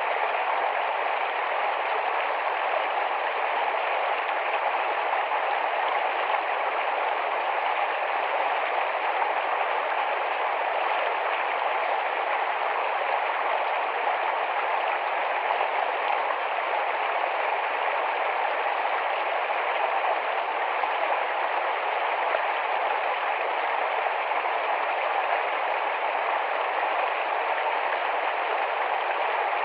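Small, fast-flowing forest stream rushing and babbling steadily over stones.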